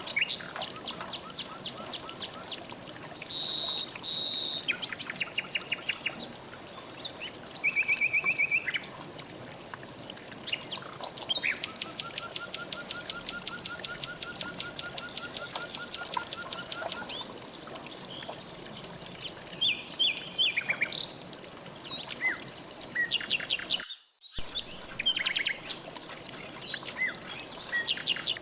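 Several songbirds singing and calling over one another, with fast runs of repeated chirps and long even trills, over a faint steady rush of flowing water. The sound cuts out for a split second near the end.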